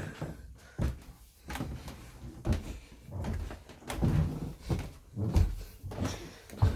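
Cupboard doors being opened and shut during a search, with a dozen or so irregular knocks and thumps.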